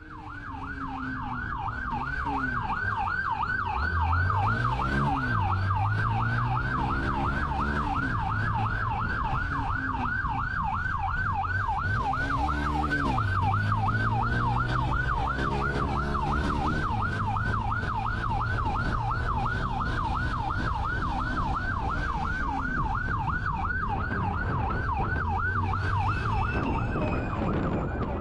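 Police car siren on a fast yelp, sweeping rapidly up and down without a break. Underneath it, the car's engine rises and falls in pitch a couple of times as it accelerates.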